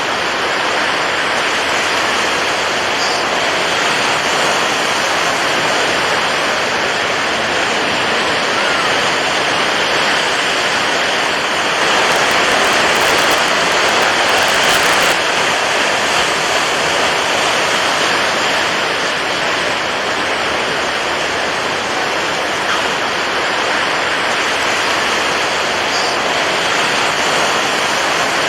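Steady rushing water, a continuous even wash without a clear rise and fall of breaking waves, swelling slightly for a few seconds midway.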